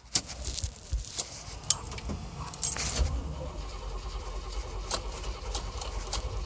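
Keys jingling and clicking in the ignition of a 1977 Jeep Cherokee, then about three seconds in its carbureted engine turns over and catches on a cold start after sitting for over a week, settling into a steady low rumble.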